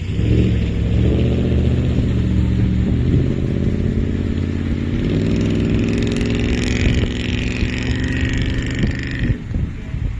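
Motor vehicle engine accelerating through the gears. Its pitch climbs, drops back at two shifts, then climbs again, and the sound cuts off abruptly shortly before the end.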